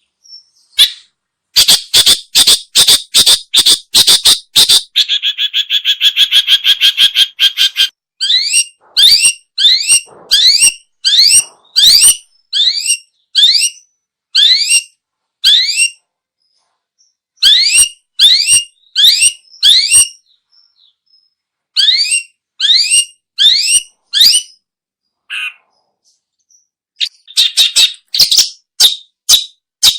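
Long-tailed shrike calling: rapid harsh chattering, then a buzzy grating call, then a long series of sharp upswept notes about two a second, broken by short pauses, and a final burst of fast chatter near the end.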